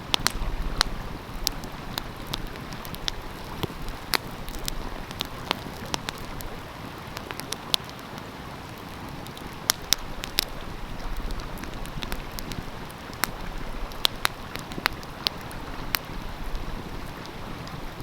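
Wood fire crackling with frequent irregular sharp pops and snaps over the steady rush of a flowing stream, with a low wind rumble on the microphone now and then.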